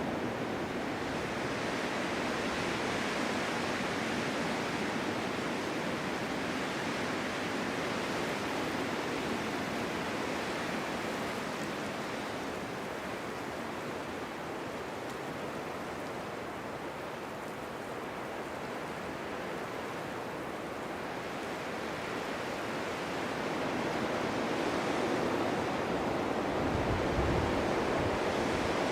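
Steady winter wind blowing through a snowstorm, rushing with no distinct events; it eases a little midway and swells again near the end, with a brief low rumble of a gust shortly before the end.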